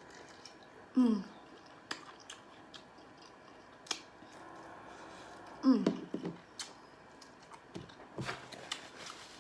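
Close-up eating sounds: wet chewing and lip smacks on seafood, with scattered sharp clicks and two short hums, about a second in and near six seconds.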